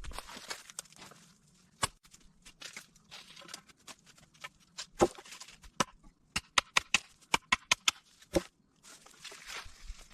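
Rustling of leaves and debris with scattered sharp snaps and crackles, and a quick run of crisp clicks past the middle.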